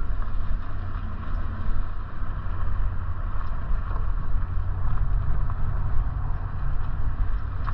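Steady low rumble of wind buffeting the microphone, with road noise, while riding a bike.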